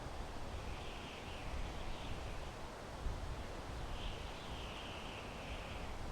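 Wind blowing steadily through pine trees, a constant rushing hiss with a low rumble underneath. Twice a drawn-out, wavering high sound rises above it, the second near the end.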